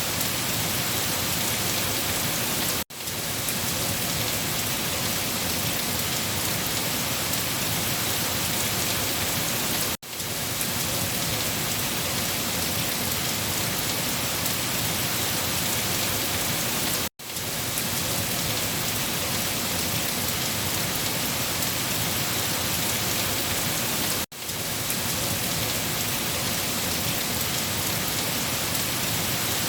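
Steady rain falling on a surface, an even hiss. About every seven seconds it cuts out abruptly and fades back in over a moment, four times in all: the seams of a looped rain recording.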